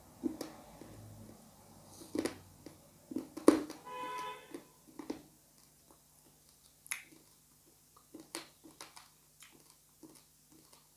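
Close-up eating sounds of chicken curry eaten with the fingers: wet lip smacks and chewing clicks, scattered and irregular, the loudest about three and a half seconds in. A short pitched hum comes about four seconds in.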